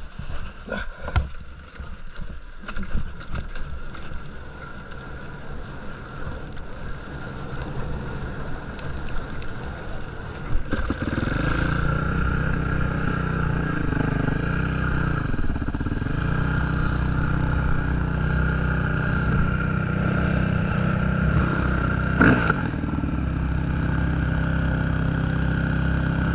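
Motocross bike engine: knocks and rattling at first, then about ten seconds in the engine gets loud and runs steadily, its pitch dipping and rising a few times as the throttle is worked. A sharp click near the end.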